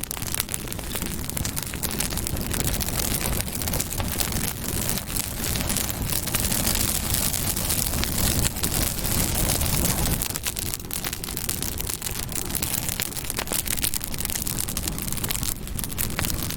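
Campfire burning, with many small crackles and pops over a steady hiss and a low rumble.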